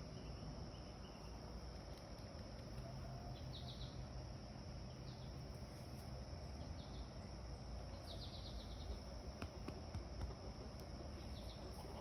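Outdoor rural ambience: a steady high buzz of insects, with several short quick runs of small-bird chirps scattered through it and a low background rumble.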